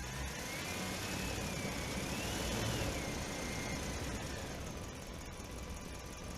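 A motor vehicle passing, its engine and road noise swelling and then fading. A high whine rises and dips along with it.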